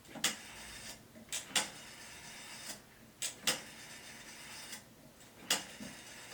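A handful of sharp clicks and knocks, two of them coming in quick pairs, over faint room noise.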